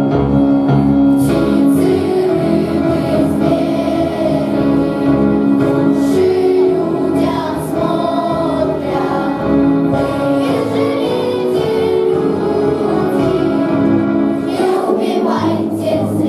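Children's choir singing a slow song in unison over sustained instrumental accompaniment.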